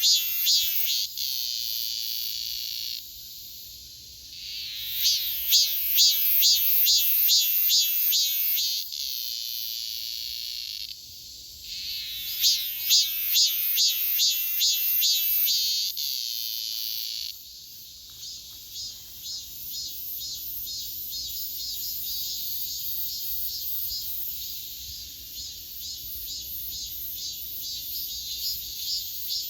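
Cicadas singing in loud pulsed phrases of a few seconds each, three in the first seventeen seconds or so, over a steady high buzz of more insects. After that the phrases stop and only the fainter, steady high chorus of cicadas and crickets goes on.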